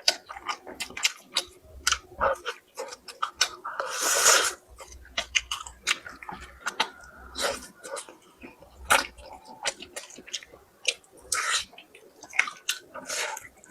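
Close-miked chewing and lip-smacking while eating: many short wet clicks and smacks, with one longer, louder noisy burst about four seconds in.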